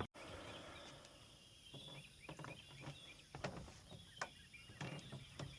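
Faint outdoor ambience with scattered light clicks and knocks and a few faint bird chirps.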